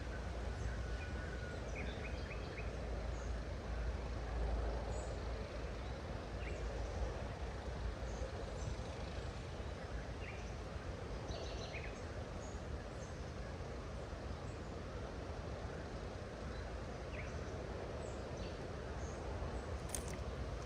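Steady outdoor ambience: a low rumble under an even hiss, with brief, faint bird chirps scattered throughout and a few sharp clicks near the end.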